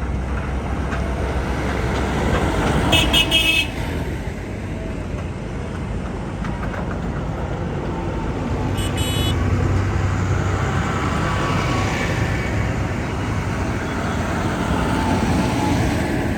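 Tractor engines running as a procession of tractors drives past, with a horn tooted briefly about three seconds in and again about nine seconds in.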